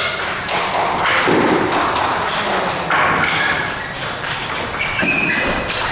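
Table tennis ball knocking back and forth in a rally: a run of sharp, irregular clicks as it is struck by the bats and bounces on the table, over a steady background of hall noise.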